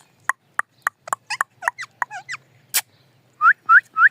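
Ringneck parrot calling: a run of short, sharp chirps, then four loud rising squawks in quick succession near the end.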